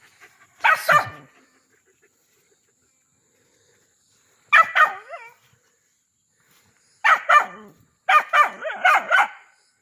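Dog barking at a snake up in a tree. One bark comes about a second in and a couple more around the middle, then a quicker run of barks near the end.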